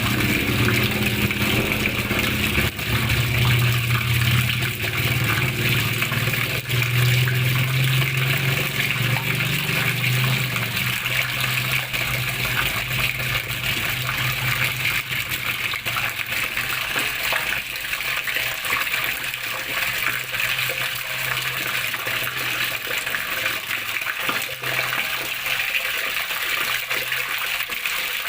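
Water flowing and splashing steadily, a constant rushing hiss. Underneath is a low hum that is strongest for the first ten seconds or so and then fades.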